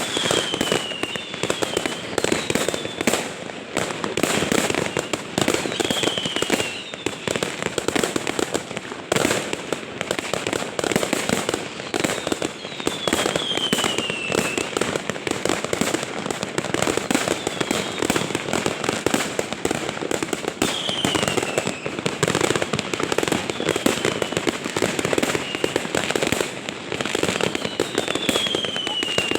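Fireworks going off in a dense, continuous crackle and popping. Short falling whistles come every few seconds.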